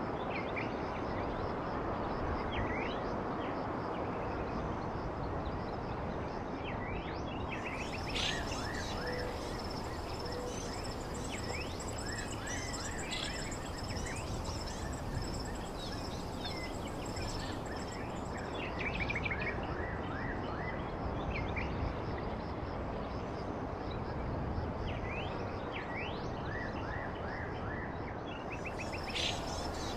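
Small birds chirping in quick, short calls over a steady rushing background noise. A thin, steady high trill joins about seven seconds in, stops around the middle, and returns near the end.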